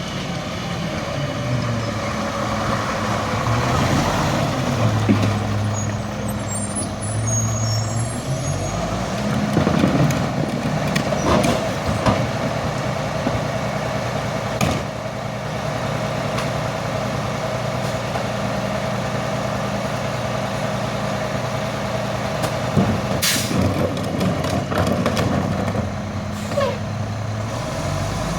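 Garbage truck running while it packs trash: the engine revs up a few times as the packer cycles, over a steady hydraulic whine. Several knocks and a short air hiss about two-thirds of the way through.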